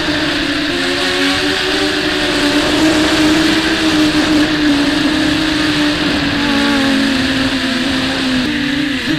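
The four brushless motors and 5030 props of a WarpQuad 200 racing quadcopter buzzing in flight, heard from a camera mounted on the quad: several close tones that drift up and down in pitch as the throttle changes. Wind noise rushes underneath throughout.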